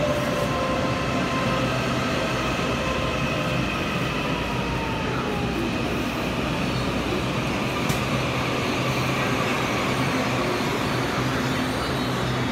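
Electric multiple-unit commuter train running into an underground station platform: a steady rumble from the wheels and running gear, with whining tones that fall in pitch as it slows, and one sharp click about eight seconds in. The enclosed platform adds a reverberant, echoing quality.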